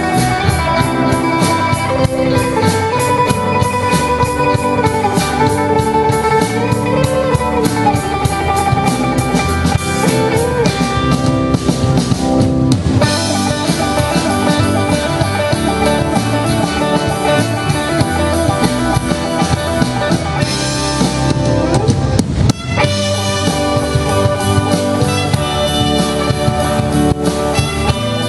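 Band music: guitar and drum kit playing, with a melody line that bends up and down over the first ten seconds or so.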